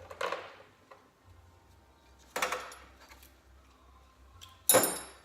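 Three sharp metallic clinks and knocks of hand tools and small steel parts being handled on the engine, the last near the end the loudest.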